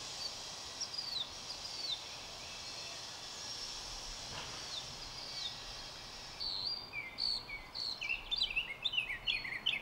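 Outdoor birds chirping: a few short down-slurred chirps in the first half, then from about six and a half seconds a quick, louder run of short chirps, over a faint steady high hiss.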